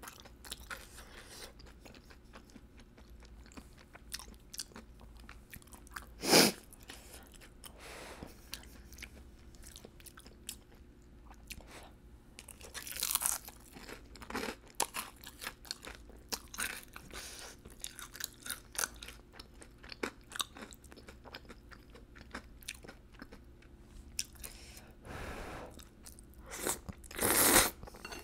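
A person eating close to the microphone: chewing and crunchy bites of fried and spicy food, with steady small mouth clicks and a few louder mouth noises, the loudest near the end.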